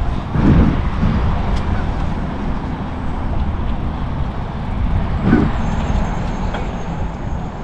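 Road traffic noise: a steady low rumble of cars, swelling briefly about half a second in and again about five seconds in.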